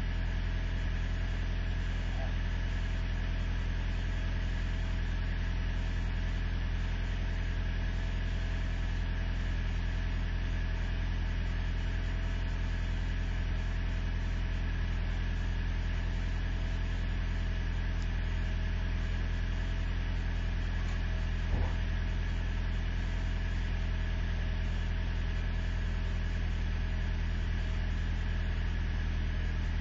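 Truck engine idling steadily while it warms up after a hard cold start at six below zero. A single short click sounds about two-thirds of the way through.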